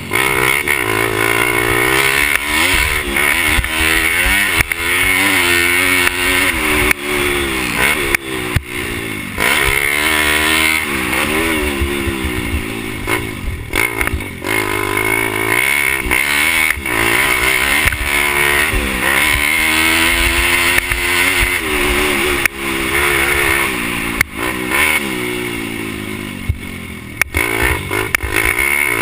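Pit bike engine racing, revving up and backing off again and again, its pitch climbing and falling every second or two, with a few sharp knocks along the way.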